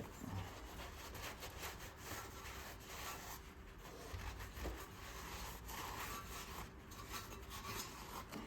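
Faint, irregular scraping and rubbing of metal engine parts being handled, with scattered light clicks.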